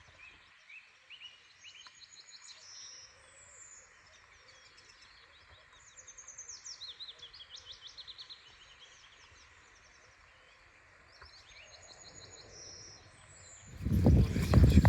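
Several songbirds chirping and trilling in spring woodland over a steady rush of noise that fits flowing river water. About a second before the end a much louder, fuller sound cuts in suddenly.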